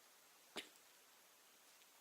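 Near silence with a single faint click about half a second in.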